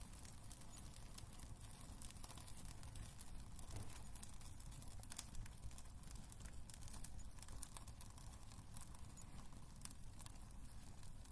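Wood fire burning in a fireplace: a low steady rumble of flame with frequent small crackles and pops scattered irregularly throughout.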